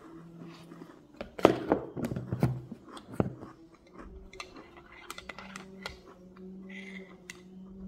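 Close-up chewing and crunching of a dry cornstarch biscuit, loudest about a second in, followed later by light clinks of a metal spoon stirring in a ceramic mug.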